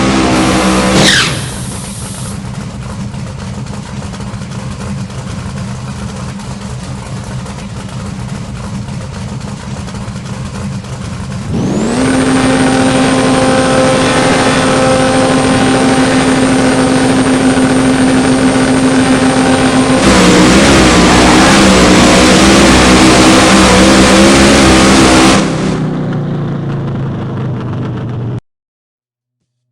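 Supercharged big-block V8 of a Camaro drag car running. It drops from a loud rev to a lower steady run about a second in, revs up again about twelve seconds in and holds high with a thin high whine over it. It gets louder and rougher about twenty seconds in, falls back near the end, then cuts off suddenly.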